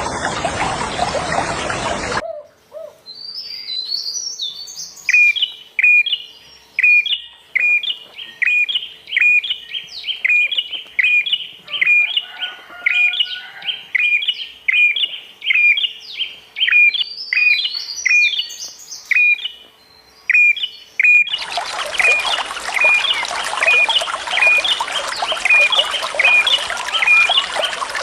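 A songbird calling over and over, a short downward-sweeping chirp a little more than once a second. Running water rushes loudly for the first two seconds and again from about three-quarters of the way through, with the calls going on over it.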